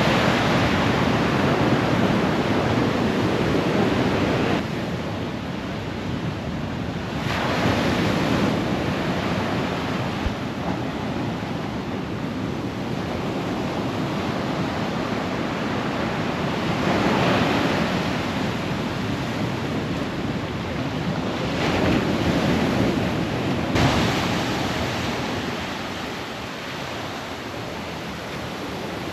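Ocean surf breaking on a beach, the wash swelling and easing with each set of waves, with wind buffeting the microphone.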